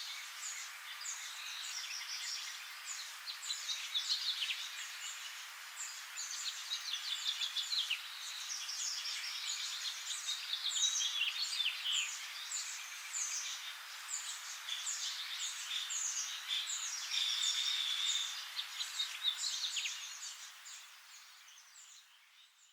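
A chorus of many small birds chirping and trilling at once, the calls overlapping densely; it fades out near the end.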